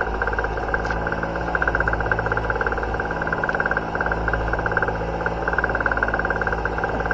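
A boat engine running steadily, with a fast, even pulsing over a low hum.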